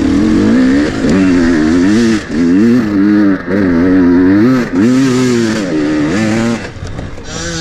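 Enduro dirt bike engine revving hard under load on a climb, its pitch swinging up and down as the throttle is worked. The revs drop off briefly three times, then settle lower near the end.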